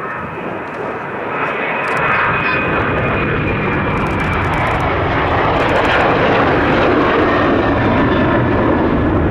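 Jet airliner's engines passing close, a loud rush that swells over the first few seconds and then holds, with a thin high whine over it.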